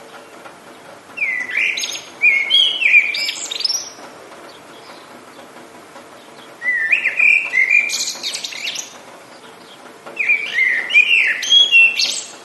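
A songbird singing three short phrases of quick swooping, sliding notes, a few seconds apart, over a steady background hiss.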